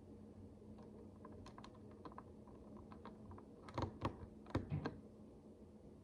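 Tiny plastic micro bricks being handled and pressed together: scattered light clicks, with a quick cluster of louder clicks and rattles about four seconds in. A faint steady hum runs underneath.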